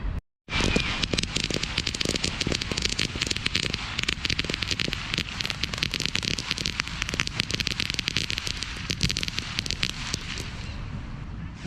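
Fireworks crackling: a dense, fast run of sharp pops that starts after a brief dropout about half a second in, goes on for about ten seconds and thins out near the end.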